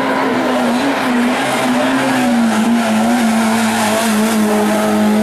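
A hill-climb race car's engine at high revs, a loud, steady note that wavers slightly in pitch.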